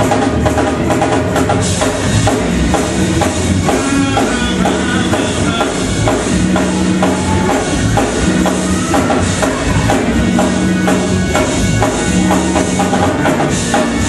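Upbeat praise music with drum kit, bass and tambourine keeping a steady beat.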